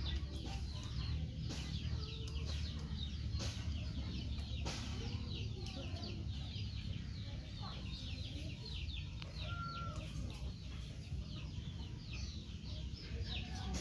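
A dense chorus of many short, high, falling chirps from birds, with a low steady rumble underneath.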